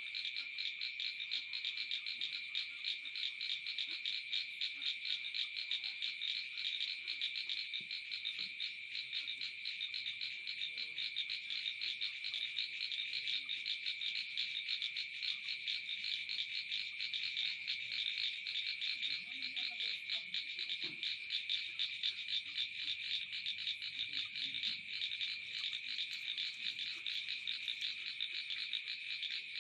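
Rice-field chorus of calling frogs: a dense, steady trill of rapid pulses that carries on without a break.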